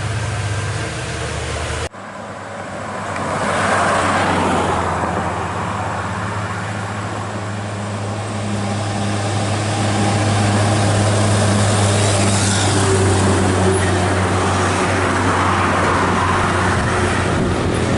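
Heavy vehicle's engine running steadily as it passes on the road, with tyre and road noise. The sound cuts off abruptly about two seconds in and swells back up soon after.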